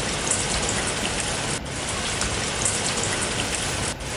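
Steady rain, an even hiss with fine crackling drops, broken by two brief dips about a second and a half in and near the end.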